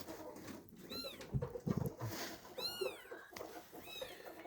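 A kitten mewing: three short, high-pitched mews, each rising and falling in pitch.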